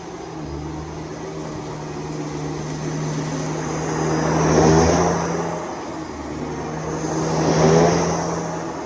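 Vacuum cleaner running with a steady motor hum, with two louder rushes of suction that build and fade, one about halfway through and one near the end.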